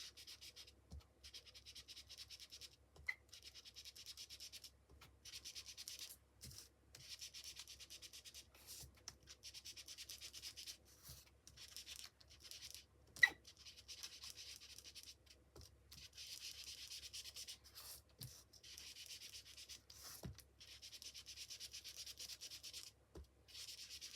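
Ink being rubbed quickly onto the edges of embossed cardstock with a blending tool: faint, fast scrubbing strokes in stretches. A couple of light taps are heard, one about three seconds in and a louder one near the middle.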